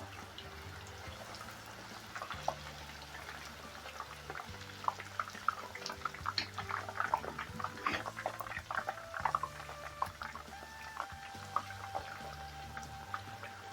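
Thin plantain slices frying in hot oil, crackling and popping, most densely in the middle of the stretch, over background music.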